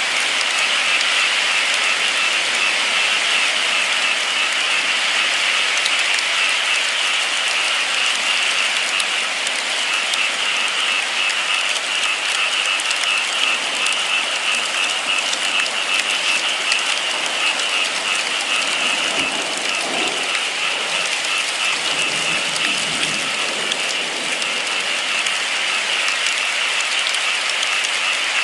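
Steady, heavy rain falling in a dense, even patter. A few faint low thuds come about twenty seconds in.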